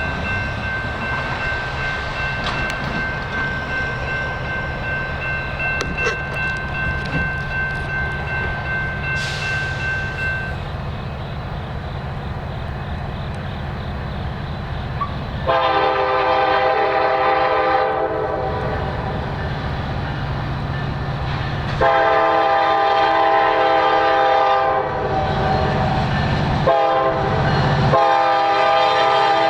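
Diesel locomotive air horn sounding a series of long chord blasts, beginning about halfway through, over the steady low rumble of diesel locomotives. A thin steady high whine is heard for the first third and then stops.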